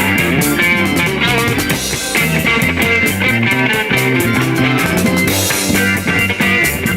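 1960s rock band record: electric guitar, bass and drum kit playing at a steady driving beat.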